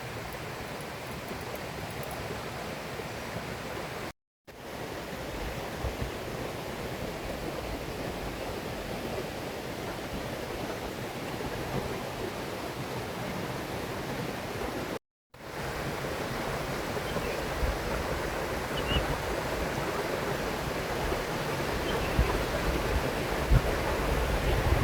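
Steady rushing of a river flowing, broken twice by a brief silence, with low wind rumble on the microphone building near the end.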